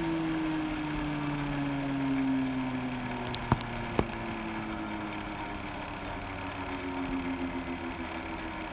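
Hot-air rework station blower whirring steadily, its pitch sliding slowly down and then holding, with two sharp clicks about half a second apart near the middle.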